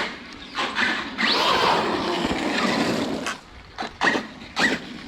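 An Arrma Kraton 6S RC car's electric motor whines and its tyres spray as it drives for about two seconds. A few short knocks follow.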